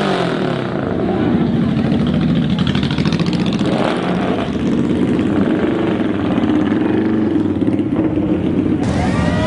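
Several motorcycle engines running together, their pitches rising and falling as they are revved.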